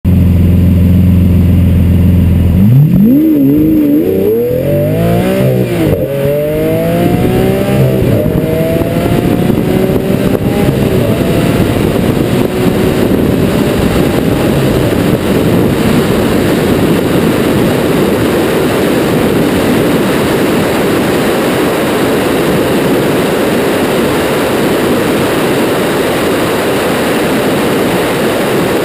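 Lamborghini Aventador's V12 engine, heard from the rear of the car: it runs steadily at first, then revs climb hard and drop back several times as it upshifts through the gears under full acceleration. After that it holds a loud, steady rush at high speed.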